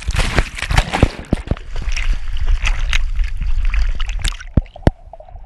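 Water sloshing and splashing in quick, irregular bursts, dying down near the end.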